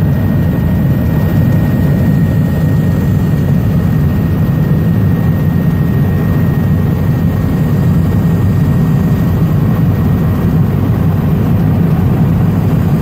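Helicopter in flight heard from inside the cabin: a loud, steady rotor and engine drone, heaviest in the low end, with a faint steady high tone above it.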